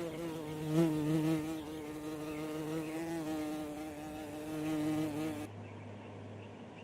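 A steady buzz with a slightly wavering pitch, which cuts off suddenly about five and a half seconds in.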